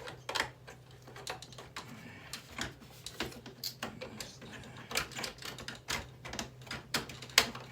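Irregular plastic clicks and clacks from the casing and parts of a burnt-out boombox CD player being handled and worked apart, with one sharper knock near the end, over a steady low hum.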